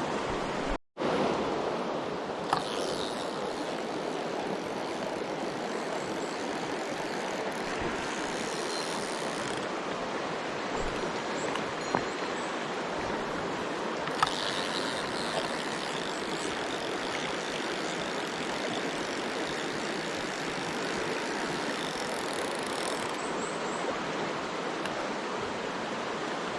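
Mountain stream water rushing steadily, with a few small sharp clicks at intervals and a brief cut to silence about a second in.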